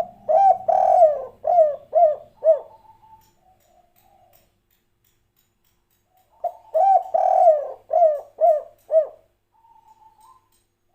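Spotted dove cooing two phrases. Each phrase is a short coo, a long drawn coo and then three short clipped 'kuk' notes, the 'kuk 3' song pattern. Soft, quiet notes come before and after each phrase.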